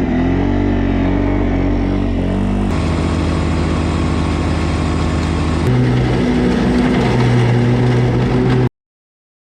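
A loud engine running steadily, heard in three spliced stretches at slightly different pitches that switch abruptly. The sound cuts off suddenly near the end.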